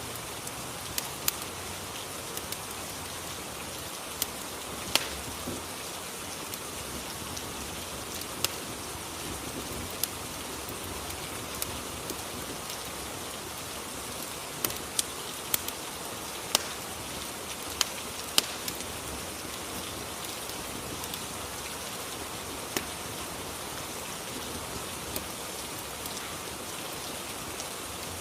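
Rain and fireplace ambience: steady rain, with sharp, irregular pops of a crackling fire, about a dozen in all.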